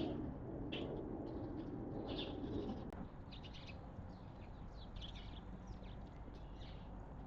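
Wild birds chirping at a feeding spot: many short, high calls scattered through, with a low, even rumble in the background that fades out about three seconds in.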